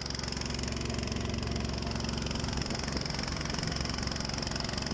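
An engine running steadily, with an even low pulsing and a steady high whine above it.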